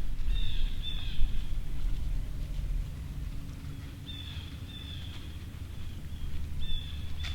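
A bird calling in three short bouts of clear, steady high notes, over a constant low rumble.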